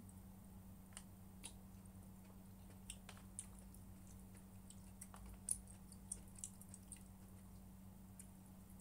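Faint eating sounds: quiet chewing with small scattered clicks, the sharpest about five and a half seconds in, over a low steady hum.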